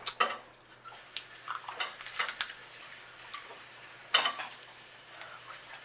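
Scattered clicks and crackles of snow crab legs being cracked and picked apart by hand, with one louder crack about four seconds in.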